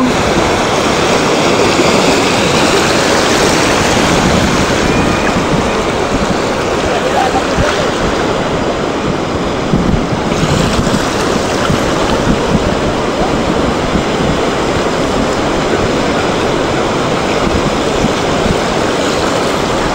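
Sea waves washing onto a beach, a steady loud rush of surf, with wind on the microphone.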